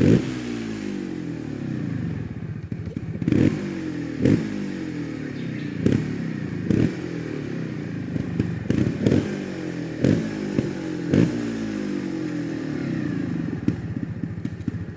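Trials motorcycle engine running at low revs with a dozen or so sharp throttle blips, each rev jumping up and falling straight back, with thumps and clatter from the bike among them.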